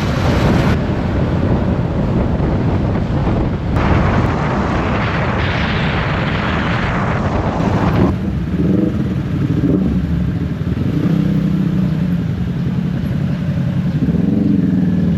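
Motorcycle taxi engine heard from the pillion seat while riding, buried under heavy wind rush on the microphone. About eight seconds in the wind drops away and the engine's low hum comes through clearly, rising briefly near the end.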